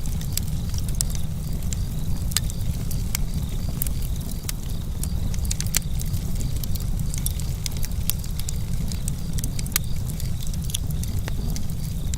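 Wood campfire burning with a steady low rumble and irregular sharp crackles and pops. Crickets chirp in a fast, even pulse behind it.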